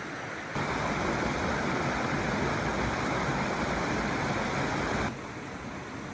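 Stream water flowing in a steady rush. A louder stretch of rushing water starts suddenly about half a second in and cuts off suddenly about five seconds in.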